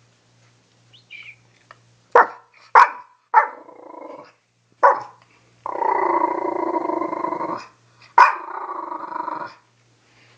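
Dog giving several short sharp barks mixed with growling, the longest growl lasting about two seconds, starting about two seconds in.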